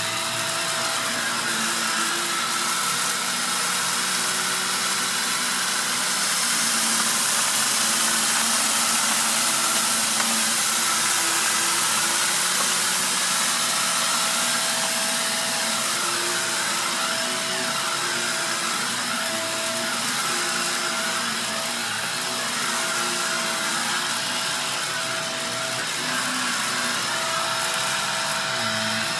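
Upright vacuum cleaner running steadily, its motor holding one constant tone under a strong airflow hiss, as it picks up rock salt and dirt. It swells a little louder several seconds in, then eases back.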